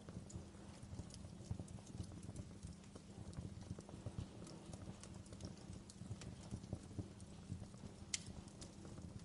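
Campfire burning: wood crackling with frequent small pops over a low, steady rumble of the flames, and one sharper snap near the end.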